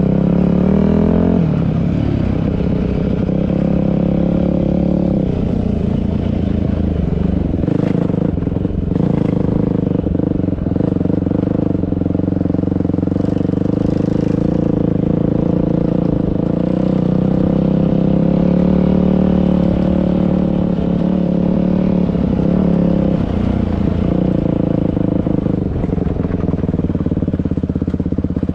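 Dirt bike engine running while being ridden. Its pitch sweeps up and down with the throttle near the start and again near the end, and holds steadier in between.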